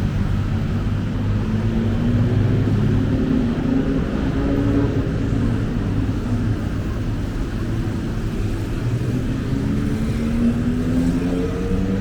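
Road traffic: a steady rumble of vehicle engines, with an engine rising in pitch as it accelerates past twice, once a few seconds in and again near the end.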